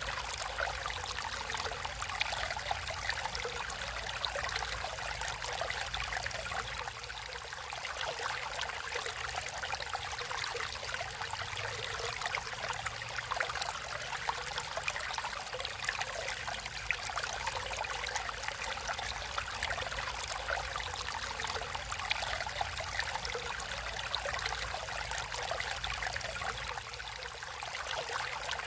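Natural flowing water: a stream running and trickling steadily, a continuous rush with many small splashes and drips.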